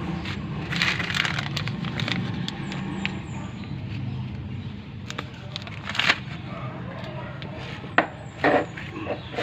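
Piaggio Ape City engine running with a steady low hum, with a few sharp clicks and knocks over it, the loudest about eight seconds in.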